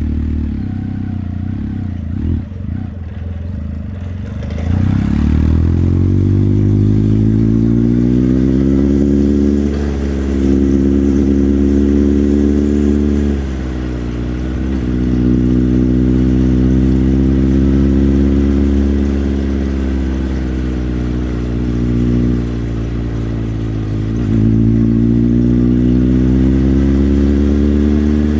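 Motorcycle engine running low and steady for a few seconds, then pulling away: the engine note climbs, breaks briefly three times, and settles into steady cruising.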